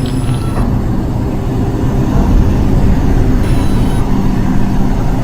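R142 subway car at a station stop, a steady low electrical hum over a rumble.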